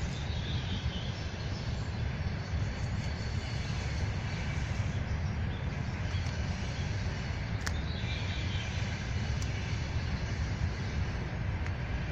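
Spring forest ambience: a steady low rumble, like distant traffic or a train, under faint bird chirps.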